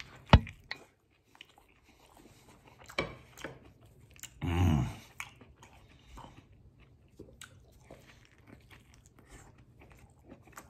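A man biting into a vegetarian burrito and chewing it with wet mouth noises, close to the microphone. A sharp click comes just after the start, and a short hummed "mm" of approval about four and a half seconds in.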